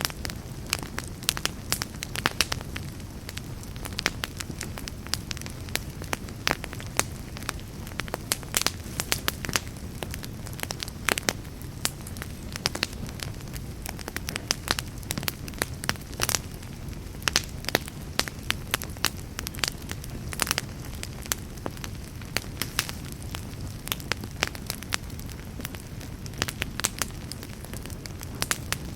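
Wood fire in a fireplace crackling: frequent irregular sharp pops over a steady low rumble of the flames.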